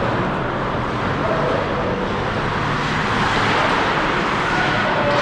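Steady ice-arena ambience during a hockey game: an even wash of noise with faint voices mixed in.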